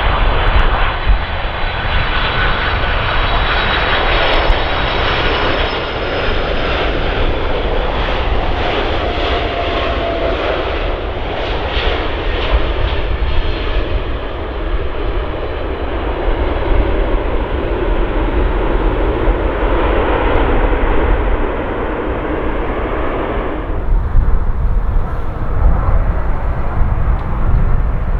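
Jet airliner engines passing close by: a loud, dense rush of engine noise with a thin high whine over a low rumble. The engine noise drops away suddenly about 24 seconds in, leaving mostly the low rumble.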